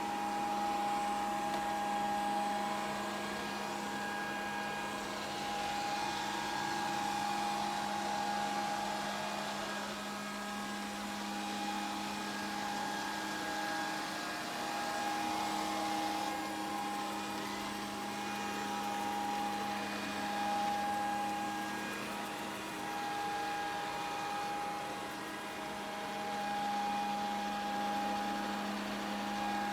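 Grundig VCR 2131 robot vacuum cleaner running, a steady motor hum and whir that swells and fades gently.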